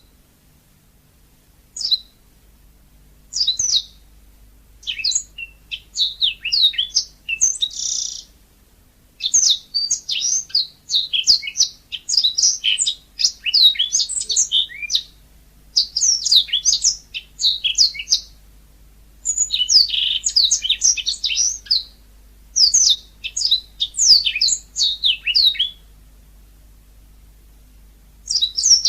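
Yellow-fronted canary (Mozambique canary) singing a lively, fast song of high chirps and trills. The song comes in phrases of a few seconds separated by short pauses, with a longer pause near the end before it starts again.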